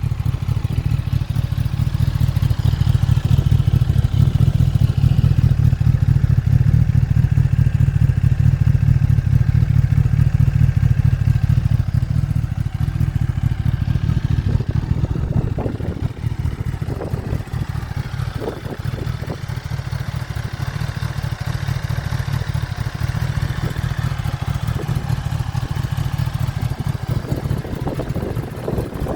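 Kawasaki ZX-10R's inline-four engine running steadily at idle through an Akrapovic exhaust, a deep, even pulsing, a little louder for the first dozen seconds. A few faint knocks sound in the middle.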